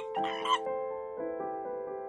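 A white-faced capuchin monkey gives one short call in the first half second, over background music with held piano-like notes. The music then carries on alone.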